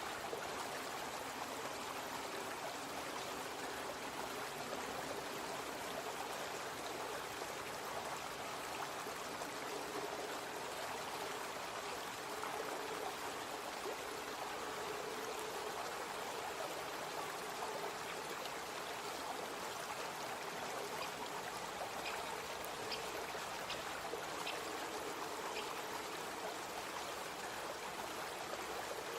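Small brook flowing steadily, water running and trickling over its bed, with a few faint ticks about three-quarters of the way through.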